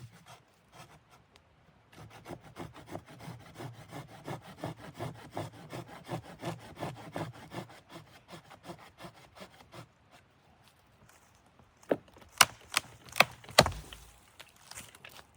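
Saw cutting through wood with quick, even back-and-forth strokes for several seconds, then stopping. Four loud, sharp knocks follow near the end.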